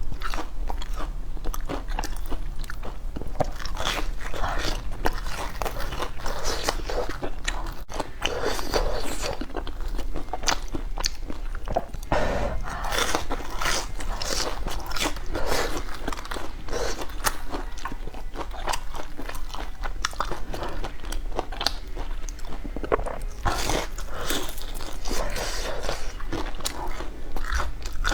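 Close-miked chewing and biting of crunchy food, with many irregular crunches.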